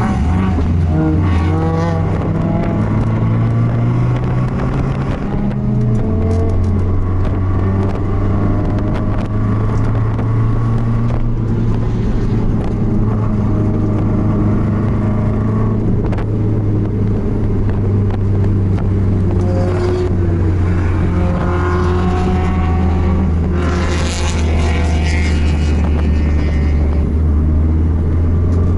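BMW race car engine running at steady revs, with its pitch stepping down about five and a half seconds in, and brief sharper bursts of sound around twenty and twenty-four seconds in.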